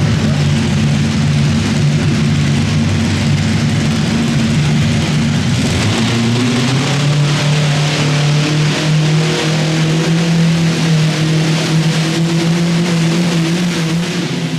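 Modified pulling garden tractor's engine running hard at high revs under load as it pulls the sled. The note holds steady, climbs a little from about halfway, then drops away at the end.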